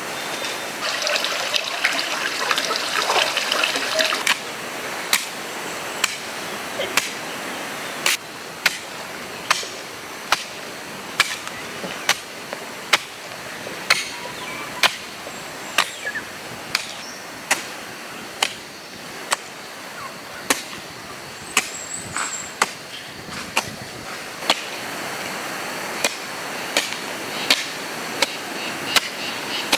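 A hand tool striking over and over at an even pace, a little more than once a second, each strike short and sharp. In the first few seconds there is a rustling, splashing noise.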